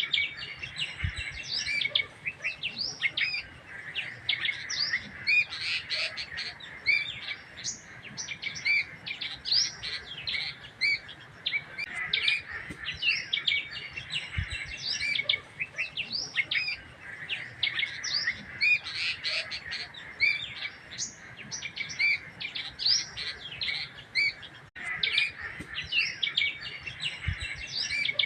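Many small birds chirping and twittering at once, a dense run of short, overlapping chirps that never stops.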